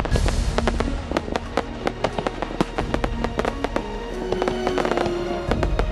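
Fireworks bursting in dense, irregular rapid crackles and pops, over music with held notes and a steady bass.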